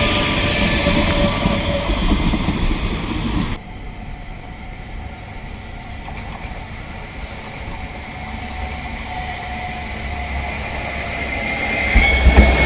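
Tram running on its rails, a rumble with shifting high tones gliding over it. The noise drops suddenly about three and a half seconds in to a quieter rumble, then builds again near the end with a high squeal.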